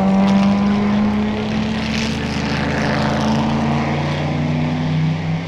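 Racing cars at Le Mans running hard at full throttle. The engine note holds fairly steady, with a rush of another car passing about two seconds in, and the pitch drops slightly near the end.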